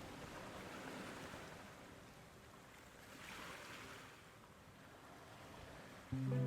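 Soft rushing of wind that swells about three seconds in and fades again. Music comes in sharply near the end.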